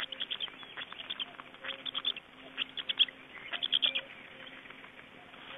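Birds chirping: quick runs of four or five high chirps, repeated about once a second, thinning out near the end.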